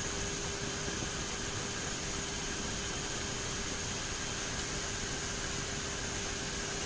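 Steady flight-deck noise of a turboprop airliner climbing: a constant rush of engine and airflow noise with a steady low hum and a high steady whine running through it.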